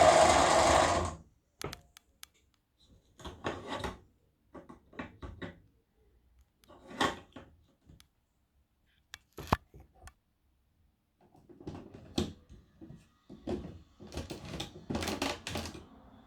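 Mini electronic toy washing machine's small motor running, cutting off suddenly about a second in, followed by scattered light clicks and knocks of the toy being handled.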